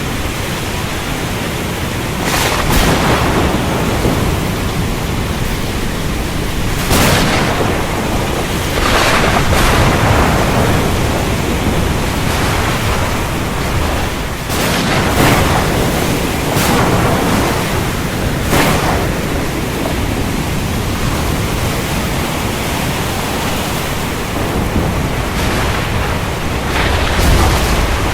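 Heavy, steady rain with sharp cracks of thunder breaking in every few seconds.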